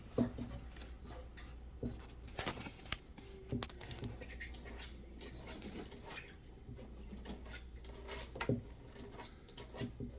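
Irregular scratching and light knocks, a few sharper clicks among them, over a steady low hum.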